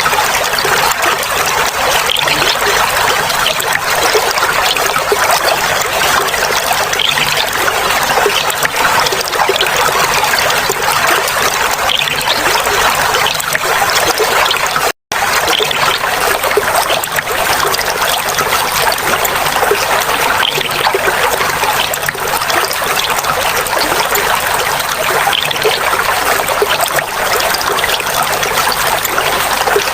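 Clear water trickling and flowing steadily in a continuous babble, broken by a momentary dropout to silence about halfway.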